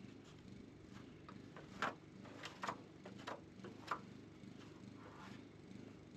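Low steady hum of a honeybee colony buzzing, with a handful of sharp clicks and taps between about two and four seconds in as frames and comb are handled.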